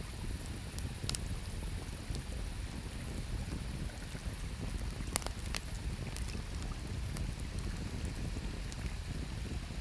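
Wood campfire crackling with sparse sharp pops, the strongest a little after five seconds, over a steady low rush of river water.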